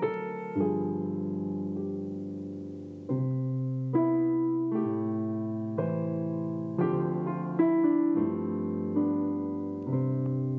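Solo piano playing an unhurried Christmas song, with a new chord struck roughly every second and left to ring.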